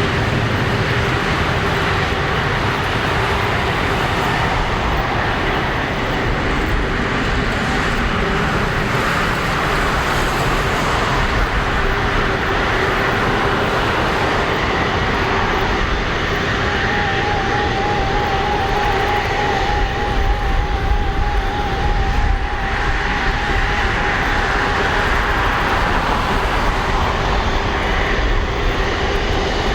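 Jet airliner engines running steadily at low power, a continuous rumble and whine with no surge of takeoff thrust.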